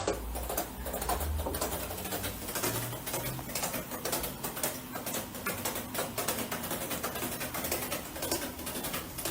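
Continuous fine scratching and patter of a kitten climbing a curtain, its claws catching and pulling on the fabric in rapid irregular clicks.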